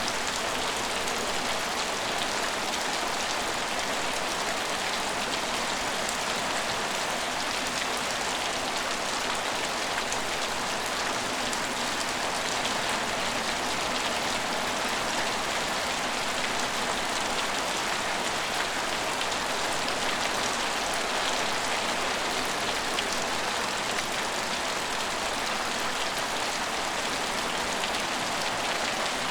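Steady rain falling and pattering on hard surfaces, an even hiss with fine drop ticks and no change in intensity.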